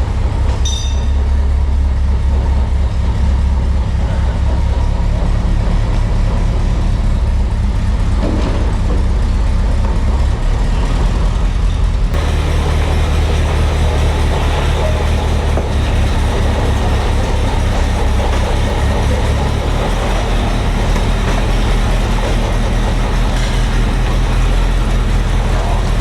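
Rolls-Royce B80 straight-eight petrol engine of an Alvis FV600-series armoured vehicle running steadily, with no revving.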